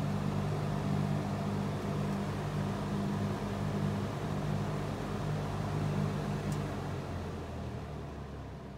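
Vintage Knapp Monarch 20-inch box fan running, a steady electric motor hum with the rush of the blades. About seven seconds in the hum drops in pitch and the sound grows fainter as the fan slows on its variable speed control.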